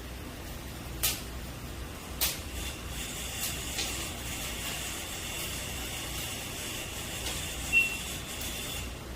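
Chicken roasting over a wood fire, a steady hiss with sharp pops about one and two seconds in and a brief high squeak near the end.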